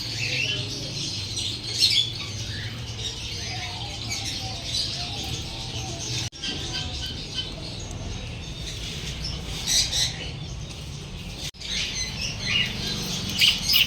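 Small birds chirping and squawking in short, scattered calls, with louder clusters around two seconds in, around ten seconds in and near the end, over a steady low hum.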